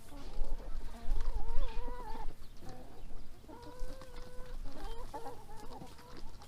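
Backyard hens calling around their feed, a few drawn-out, wavering calls one after another, with intermittent low rumbling underneath.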